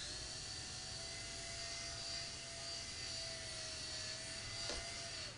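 Air Hogs toy remote-control helicopter's small electric rotor motor running: a steady high-pitched whine with rotor hiss that starts suddenly and cuts off shortly before the end.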